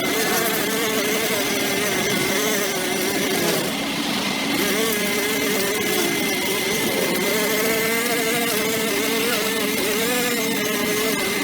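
Small petrol engine running steadily, its pitch wavering slightly up and down.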